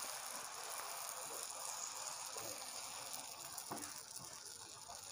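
Egg-coated bread slices frying in butter on a hot tawa: a soft, steady sizzle, with a couple of faint taps late on.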